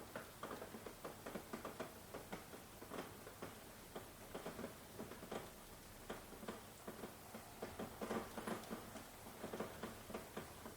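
Rain falling, its drops tapping irregularly and densely on nearby surfaces, with no thunder.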